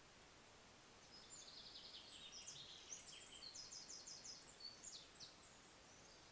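A songbird singing one fast, high-pitched phrase of varied trills, starting about a second in and lasting about four seconds, faint over the steady hiss of a trail camera's microphone.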